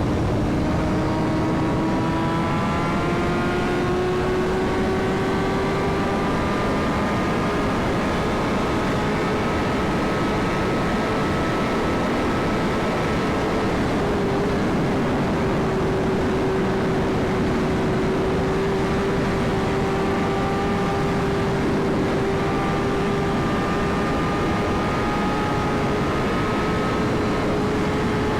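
BMW S1000RR's inline-four engine held at high revs at highway speed, its pitch rising slowly over the first several seconds and then holding steady, under heavy wind rush on the microphone.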